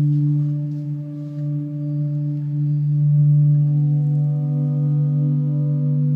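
Electronic drone from an interactive sound installation played by drawing on an iPad: a steady low tone with overtones, with a few fainter higher tones fading in around the middle.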